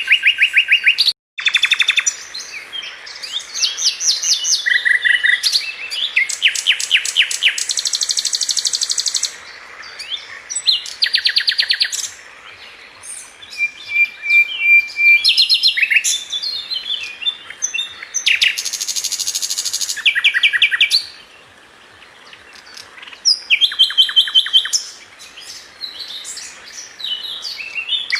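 Sikatan London flycatcher singing a varied song of rapid high trills, rattles and chirps in short phrases one after another, with a brief cut to silence about a second in.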